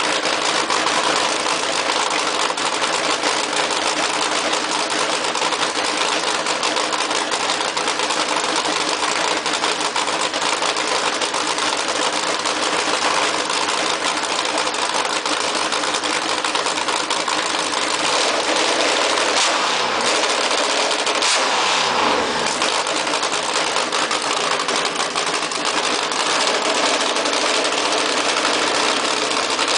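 Nitromethane-fuelled Hemi V8 in a custom Ford Thunderbird running at a high, fast idle, loud and steady. About two-thirds of the way through, a few tones sweep downward in pitch over the steady running.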